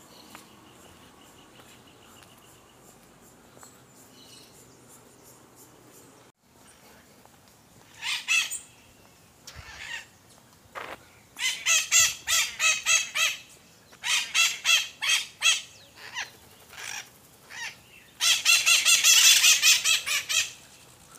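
A bird calling loudly in bursts of rapid, harsh, pitched notes, beginning about a third of the way in and loudest near the end.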